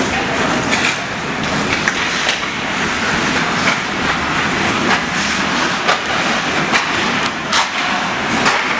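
Ice hockey play on a rink: a steady scraping hiss of skates on ice, broken by frequent sharp clacks of sticks and puck.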